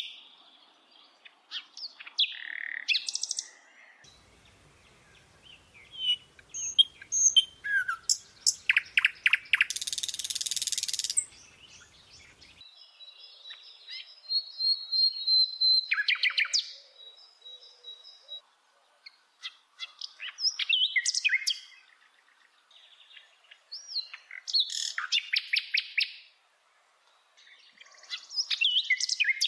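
Bird singing: a run of varied high chirps, quick trills and buzzy notes in separate phrases with short pauses between them.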